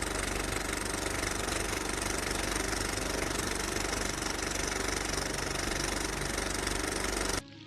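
A loud, steady, engine-like mechanical noise with a fast low pulsing, cutting off abruptly about seven seconds in.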